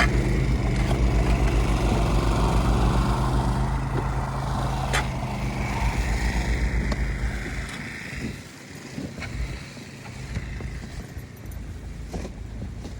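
An engine running with a steady low throb that dies away about seven and a half seconds in, leaving a quieter hiss with a few clicks.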